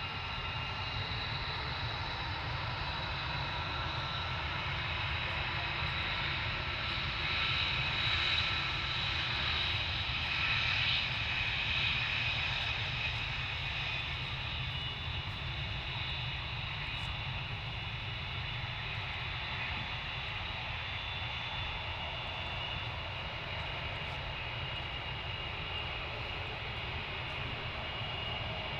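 Military jet aircraft engines running, a steady whine with high tones over a low rumble, swelling a little between about seven and thirteen seconds in.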